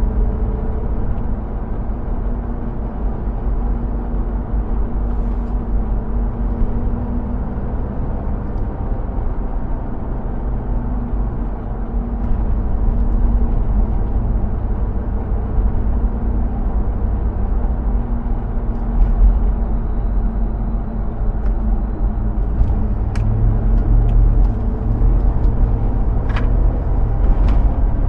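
2005 Hummer H2's 6.0-litre V8 running under way, with a steady low rumble of engine and road. A few short sharp ticks come near the end.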